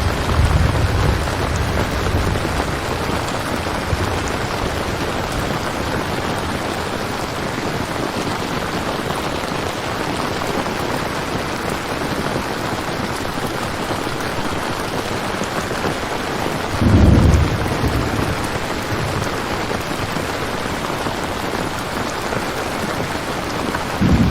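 Steady rain falling, with low rolls of thunder: a short one in the first couple of seconds, a louder one about two-thirds of the way through, and another starting near the end.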